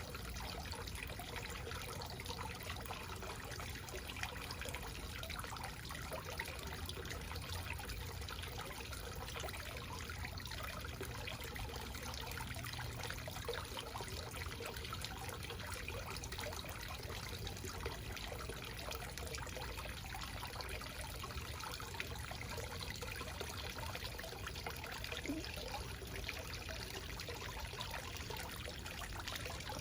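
Small backyard waterfall running steadily, water trickling and splashing into a pool.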